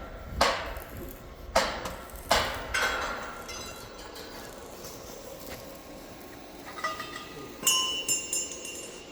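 Sharp knocks on metal, four in the first three seconds, then a quick run of metal clinks with a short ringing tone near the end.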